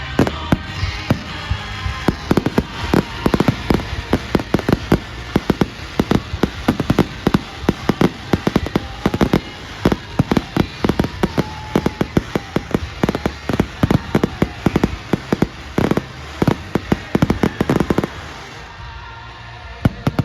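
Fireworks display: a rapid, dense barrage of bangs and crackles that stops abruptly about two seconds before the end, with music playing underneath.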